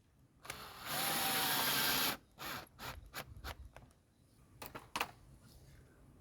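Cordless drill/driver running for about a second, with a short run-up just before it, then several short clicks and knocks of handling. It is the sound of backing out a screw of the old house number plate.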